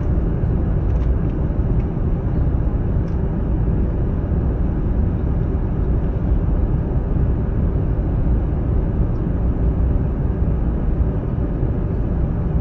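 Jet airliner cabin noise in flight: a steady low rumble of engines and airflow, even throughout.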